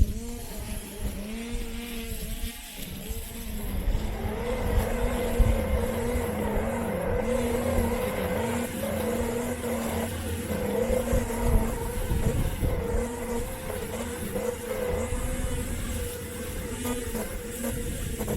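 Robot lawn mower's electric motors humming, the pitch dipping and recovering every second or so as the load changes, over a low rumble and knocks of the body jolting across the lawn, heard from a camera taped onto the mower.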